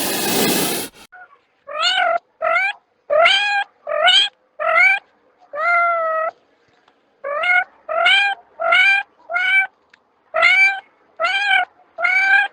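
A cat meowing over and over: about fifteen short meows, each rising then falling in pitch, with two brief pauses between runs. A burst of hiss lasting about a second comes first.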